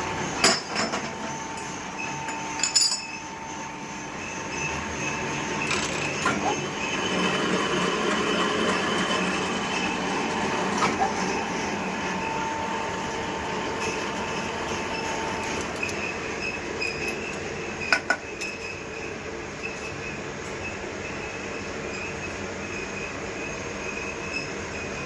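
Multi-spindle drilling and tapping machine running, its spindles cutting metal: a steady mechanical whine with a few sharp metallic clicks. A high tone drops out about fifteen seconds in.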